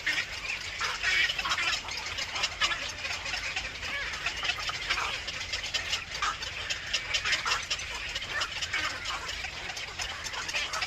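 Birds chirping in many short, overlapping calls in quick succession, over a faint low steady rumble.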